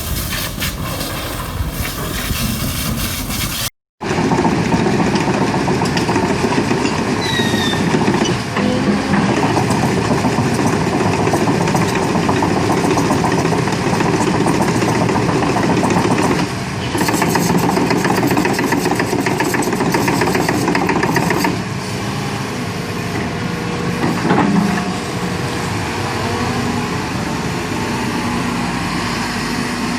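Construction machine's engine running, with a dense hiss over it. The sound drops out briefly about four seconds in and changes abruptly twice later on.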